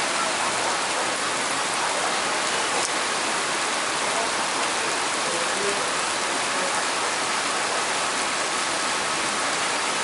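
Heavy torrential rain pouring down steadily, an even, dense hiss of rain on the surfaces below.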